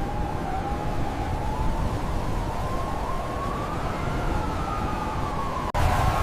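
Emergency vehicle siren wailing, its pitch slowly rising and falling, over a steady low rumble. Near the end the sound drops out for an instant and comes back louder.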